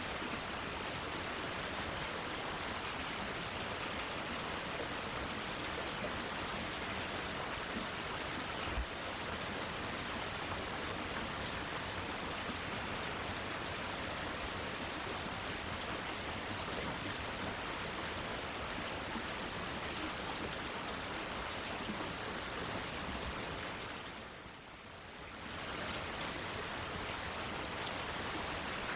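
Steady rain falling, an even hiss with one sharp tick about nine seconds in. Near the end the sound briefly dips in level and then comes back.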